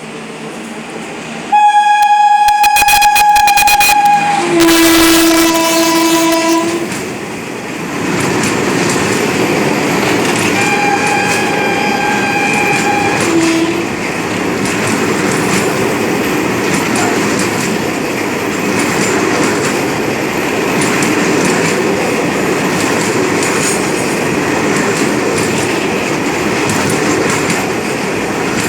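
Locomotive horn blowing: a long high blast, then a lower two-note blast, and a second high blast a few seconds later. Under and after the horn, steady rumbling of wheels on rails with regular clickety-clack over the rail joints as the oil tank wagons of a freight train pass.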